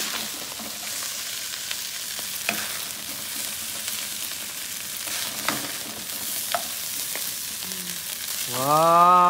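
Fried rice sizzling steadily in a wok on a gas burner, with a few sharp scrapes and taps of a wooden spatula against the pan as rice is scooped onto a plate. A woman's voice comes in near the end.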